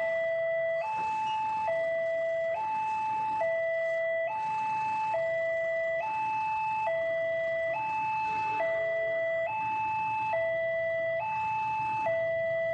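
Railway level-crossing warning alarm sounding, a two-tone hi-lo electronic signal that switches pitch about every second, warning that a train is approaching.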